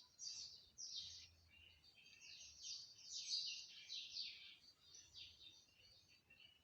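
Faint chirping of small birds: a quick run of short, high, downward-sliding notes that thins out near the end.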